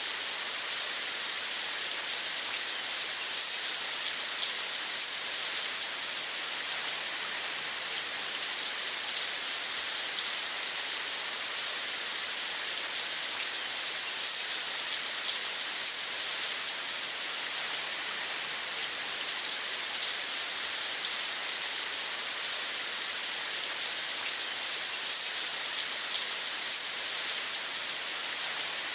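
Steady rain falling, an even hiss of many fine drops that doesn't change.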